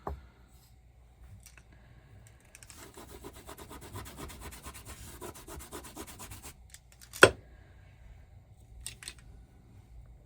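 Rapid rhythmic scraping across a nail-stamping plate for about three and a half seconds, then one sharp knock about seven seconds in and two small clicks near the end.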